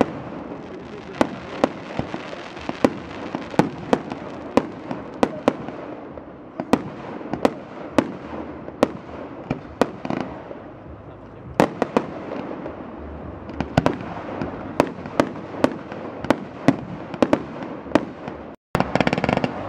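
Fireworks display: aerial shells bursting one after another, a sharp bang every half second to a second over a steady crackling hiss. Near the end the sound drops out for a moment and comes back louder and denser.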